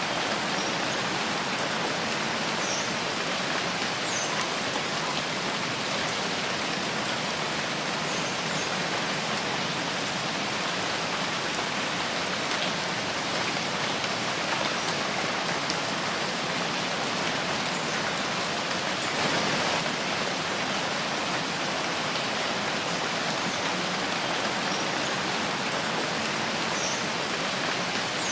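Steady rain falling in a forest, an even, dense patter that swells briefly a little after two-thirds of the way through.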